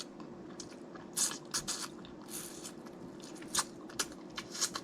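Close-up eating of snow crab legs: irregular crunching and cracking of the shells with wet, squishy chewing of the buttered meat, in several clusters of sharp cracks.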